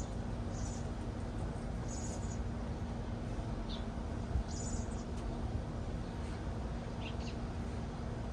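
Honeybees humming around the open hive, a steady low drone, with short high bird chirps every second or two and a soft knock about four seconds in.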